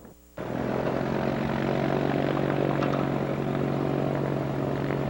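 PBY-5A Canso's twin radial piston engines running with a steady propeller drone. It starts suddenly about half a second in, after a brief dropout.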